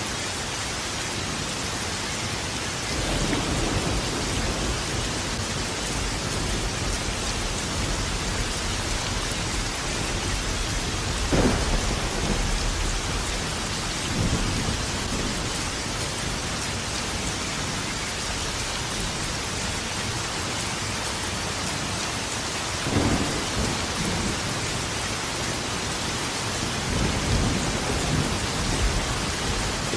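Steady heavy rain with thunder: a low rumble rolls in about three seconds in, a sharper thunderclap comes near the middle, and more rumbles follow later.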